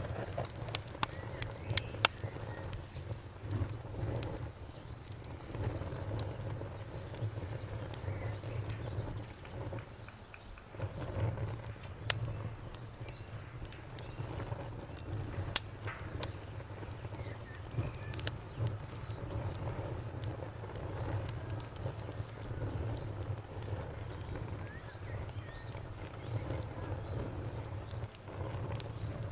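Campfire crackling, with scattered sharp pops. Behind it a cricket chirps in a steady high trill and frogs croak.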